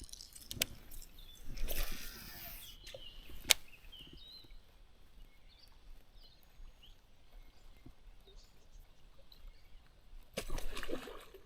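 A short whooshing rush and a couple of sharp clicks over a quiet outdoor background, with faint high chirps in between.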